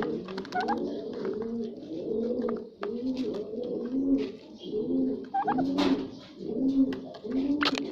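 Several pigeons cooing over one another: low, rolling coos repeating roughly once a second, with scattered short higher chirps and clicks.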